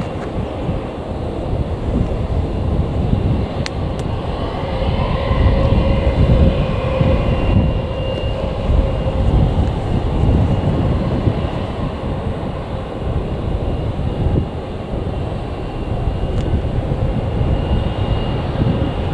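Jet airliner's engines at takeoff power: a loud, deep rumble with a steady whine over it, loudest about six seconds in.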